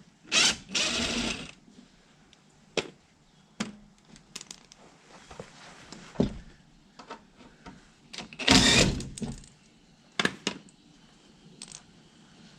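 Ratchet with a T30 Torx bit loosening the splash-shield bolts under a car: short bursts of ratcheting and scraping, the longest just after the start and about two-thirds of the way in, with scattered clicks and knocks between.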